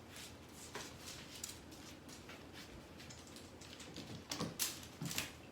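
A series of light, irregular clicks and knocks, loudest in a short cluster about four to five seconds in.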